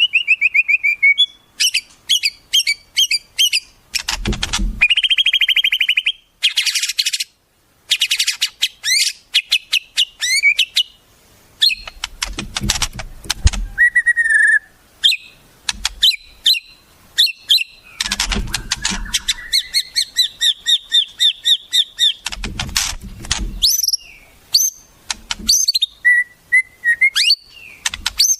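Songbird calls in quick succession: sharp repeated whistles, chirps, rapid note runs and trills in many different patterns, broken by short pauses.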